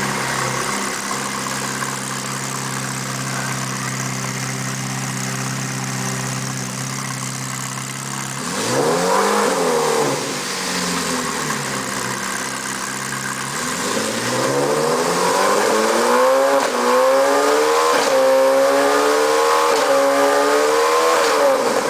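Ferrari F430 GT3's V8 engine idling steadily, then revved up once about eight seconds in and dropping back to idle. From about fourteen seconds it is revved again and blipped repeatedly, the revs rising and falling several times before falling back near the end.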